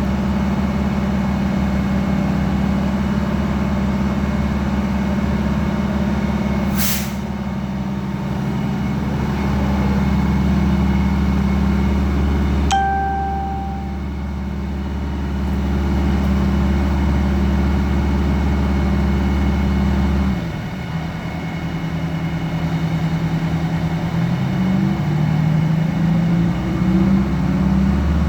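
Fire truck engine running steadily while driving its water pump. A short hiss about seven seconds in, an abrupt change in the sound about halfway, then the engine drops to a lower speed and climbs again in steps near the end.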